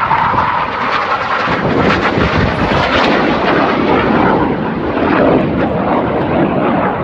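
Aircraft engine noise, loud and steady throughout.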